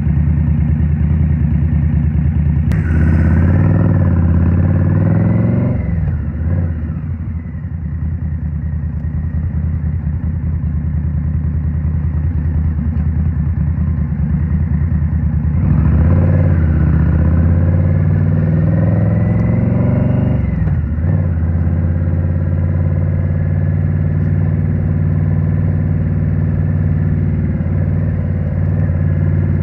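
Indian Scout Rogue V-twin through a Rinehart slip-on exhaust, heard from the rider's seat. It runs steadily, then pulls up through the revs twice, about three seconds in and about sixteen seconds in, and drops back each time.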